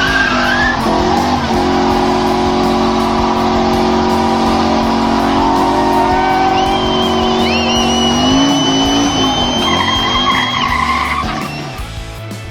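Classic Ford Mustang V8 held at high revs through a burnout, the rear tyres squealing, with the engine note climbing about eight seconds in. The sound drops away near the end.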